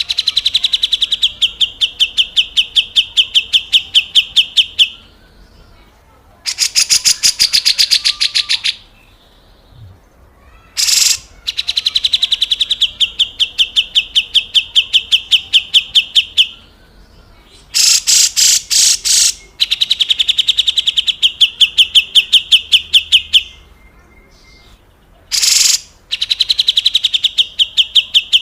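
Cucak jenggot (grey-cheeked bulbul) giving its harsh rasping 'besetan kasar' calls: loud trains of rapid, evenly repeated buzzy strokes, about five a second, each train lasting several seconds, broken by short, harsher rasps between them.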